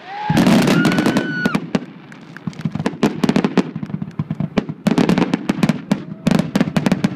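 Aerial fireworks going off in rapid succession: a dense run of sharp cracks and bangs from many shells and comets fired close together. It thins out briefly about two seconds in, then builds again in the second half.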